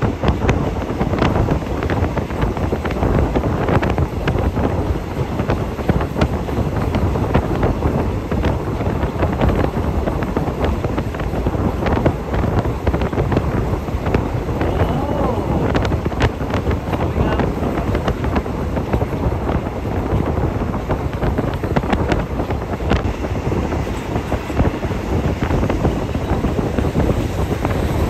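Moving train heard from inside a passenger car with open windows: a steady rumble of wheels on the rails with wind rushing in, and scattered clicks and knocks from the running gear.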